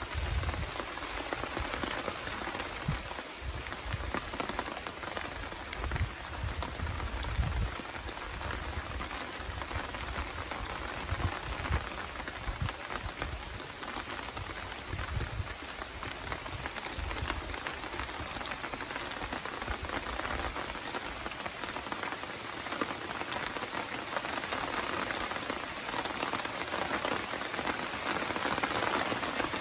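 Steady rain falling, a dense hiss of many close raindrops, with occasional low bumps in the first half.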